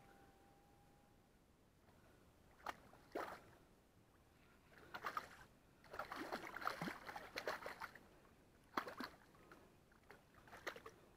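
Faint water sloshing and splashing in short, irregular bursts, with a longer patch in the middle.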